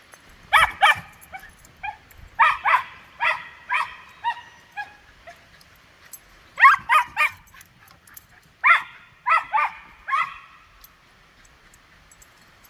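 Small schnauzer-type dog barking in play, short high-pitched barks in clusters: two near the start, a run of about six in the next few seconds, then groups of three and four later, stopping a couple of seconds before the end.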